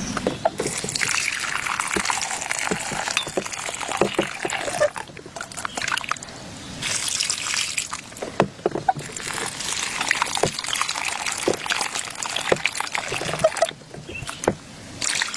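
Rain falling, with many separate drops tapping and water trickling. The sound dips briefly a few times.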